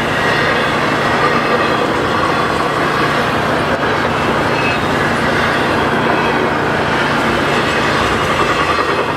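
Double-stack intermodal container cars of a CN freight train rolling past fast: a steady, loud rush of steel wheels on the rails.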